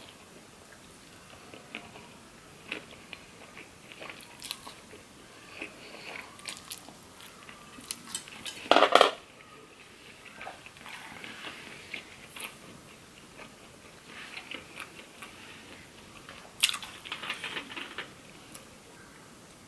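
Close eating sounds: chewing and biting with scattered small clicks and knocks, and one louder noisy burst about nine seconds in.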